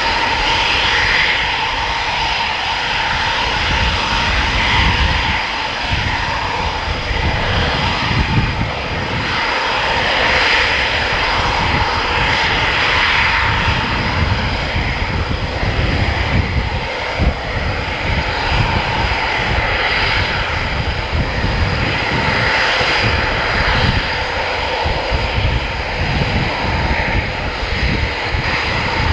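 Military jet engine noise, loud and steady for the whole stretch: a high whine over a low, unsteady rumble.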